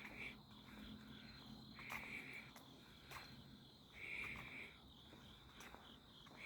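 Night insects chirping: a steady high insect trill with a louder chirp about every two seconds.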